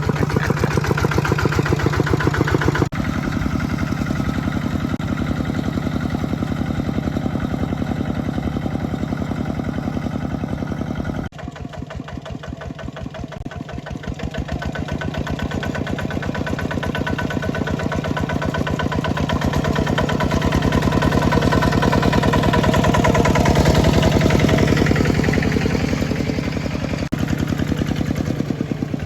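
Mini tractor's engine running under plowing load with a rapid, even firing beat. It drops suddenly about eleven seconds in, then builds back up and is loudest a little past twenty seconds.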